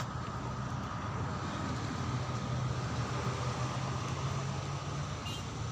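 Steady vehicle engine and road noise, heard from inside a car, with a low engine hum throughout.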